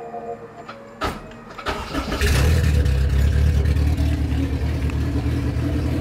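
Swapped Honda K24 four-cylinder engine in a Civic hatchback starting up about two seconds in, after a brief crank, then running steadily at idle.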